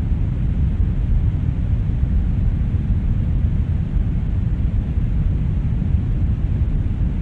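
Brown noise: a steady, deep hiss with most of its weight in the bass, thinning out toward the treble and not changing in level.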